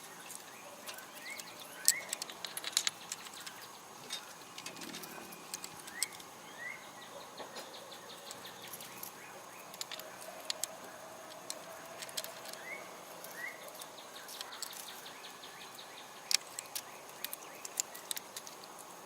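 Small metal tools such as drill and router bits clicking and clinking at irregular moments as they are picked up and set down while being sorted into groups. Short rising bird chirps recur faintly in the background.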